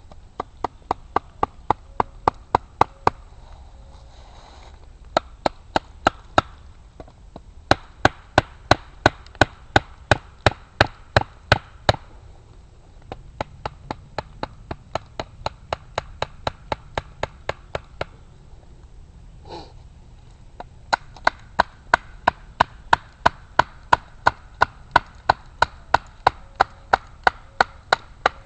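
Rapid, even series of sharp knocks of a blade striking hardwood, about four a second, in runs of a few seconds separated by short pauses.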